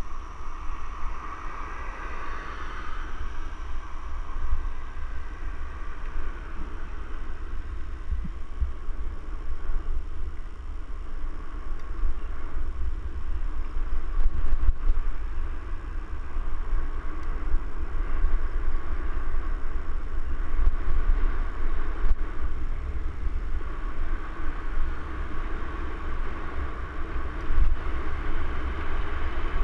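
Wind buffeting the microphone in a steady low rumble, over an even hiss of rolling noise, as from a camera carried on a moving mountain bike.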